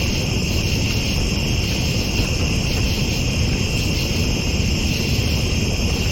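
Night-time chorus of crickets, a continuous high trilling that holds steady throughout, over a steady low rumble.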